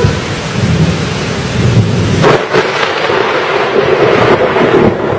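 Thunderstorm with heavy rain hissing steadily and a low rumble of thunder, broken by a sharp crack about halfway through.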